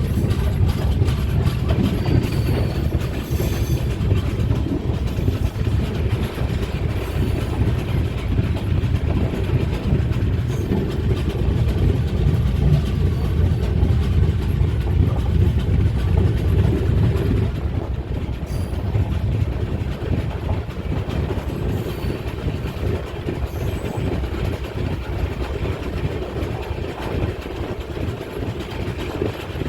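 An Indian Railways train running along the track: a steady low rumble of wheels on rails, which grows gradually quieter over the second half.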